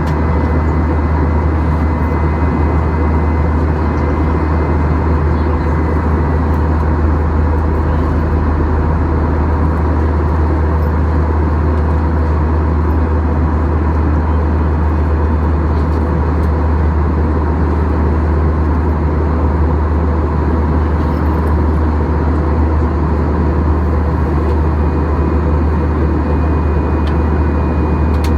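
Steady cabin noise inside a Boeing 737-800 airliner: a loud low drone of engines and airflow, with a faint steady whine over it.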